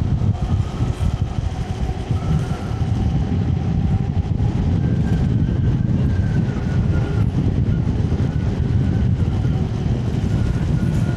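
Electric scooter ride: a steady heavy rumble of wind and road noise on the camera microphone, with a faint motor whine that holds a near-steady pitch.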